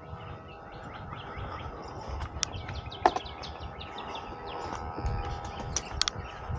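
Small birds chirping outdoors, many short quick chirps in close succession, over a steady hum, with two sharp clicks about three and six seconds in.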